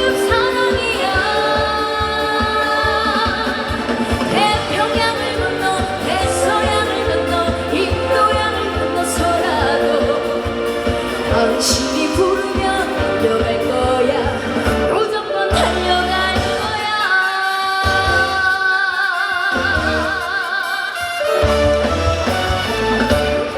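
Live trot music: a woman singing over a loud backing track with a steady low beat, holding long notes with wide vibrato near the end.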